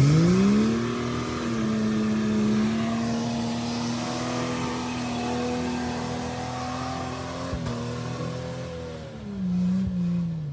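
Jeep engine revved up quickly and held at high revs for about eight seconds under load on a slick, wet trail, then easing off near the end.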